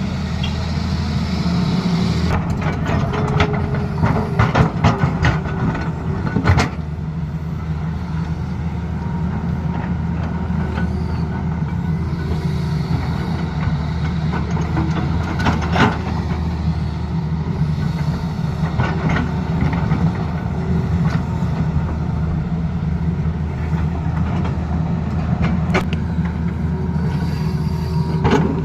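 Tata Hitachi excavator's diesel engine running steadily under work, with spells of clattering knocks and scraping, heaviest a few seconds in and recurring later, as the machine cuts into the road.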